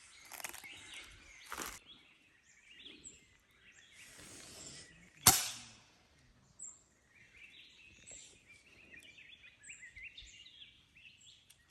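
Small forest birds chirping and warbling, with a single sharp crack about five seconds in, the loudest sound, and brief rustling before it.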